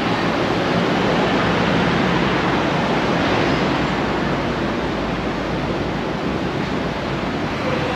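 Steady rushing background noise, even across low and high pitches, with no distinct events.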